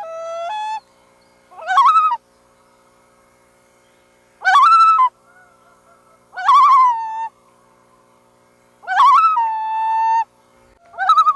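Common loon calling over and over, a call about every two seconds: each one quavers upward and then settles into a short held note.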